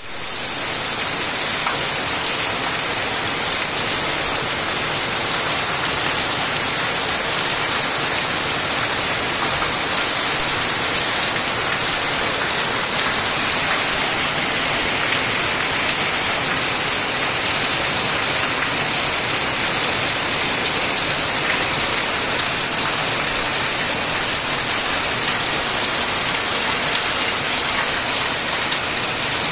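Heavy monsoon rain pouring down, a dense, steady hiss of falling water without letup.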